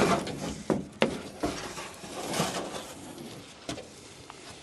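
Several sharp knocks and clatters with a rustling scrape in between, as pieces of old car interior trim and panelling are pulled loose and handled.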